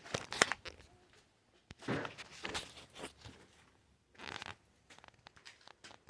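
Irregular scraping strokes of a hand tool being worked by hand: three longer rasping passes, then a few light clicks near the end.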